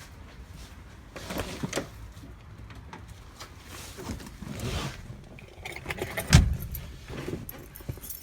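Handling noises around the old diesel Mercedes before its start: scattered metallic clinks and knocks, with one heavy thump about six seconds in. The engine is not yet running.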